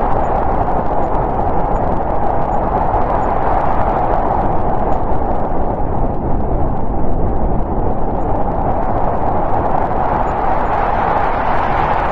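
Steady winter storm wind, gusting gently up and down, with most of its sound in a low-middle rushing band.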